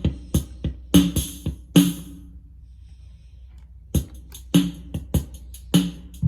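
Drum-machine pattern from the Roland Micro Cube Bass RX's built-in rhythm box playing without the bass, kick and cymbal hits stopping for about a second and a half midway, then picking up again, over a low hum.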